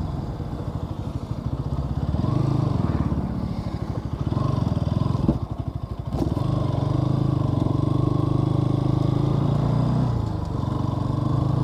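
Bajaj Pulsar NS200's single-cylinder engine running under way, its note rising and falling with the throttle. It drops off briefly about halfway, then picks up again and holds steady.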